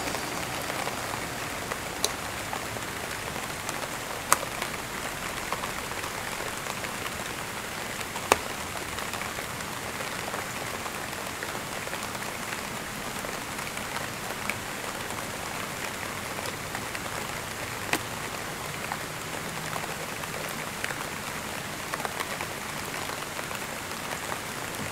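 Steady rain falling, an even hiss, with a handful of sharper single drop hits standing out.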